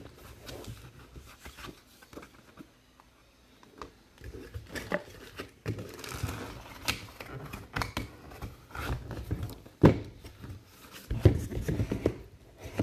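Handling noise on a tabletop: rustling of card packaging with scattered clicks, a sharp knock about ten seconds in, and a cluster of knocks near the end as items are set down.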